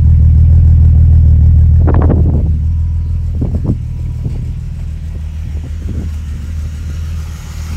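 Turbocharged car engine running after a cold start with a steady low rumble, dropping in level about four seconds in, with a few short clattering noises. The engine is damaged and makes a noise; the owner suspects fried piston rings or a melted piston.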